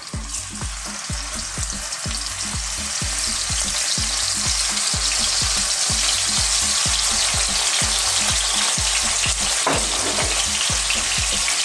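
Scallops sizzling in hot oil in a non-stick frying pan as they are laid in one at a time, the sizzle building over the first few seconds as more go in and then holding steady. A low, regular pulsing, about four a second, runs underneath.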